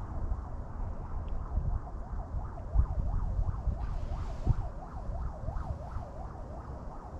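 Wind buffeting the microphone, a gusty low rumble. Over it a tone wavers up and down over and over, about twice a second, plainest in the middle of the stretch.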